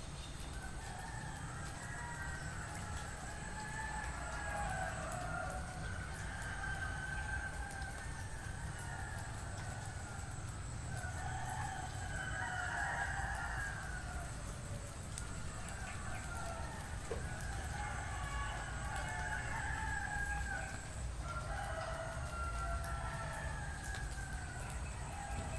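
Several roosters crowing, one call after another and often overlapping, with a steady high thin tone and a low rumble underneath.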